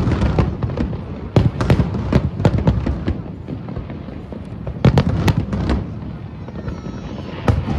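Aerial fireworks bursting: a rapid run of sharp bangs and crackles in several volleys, over a continuous rumble of shells exploding.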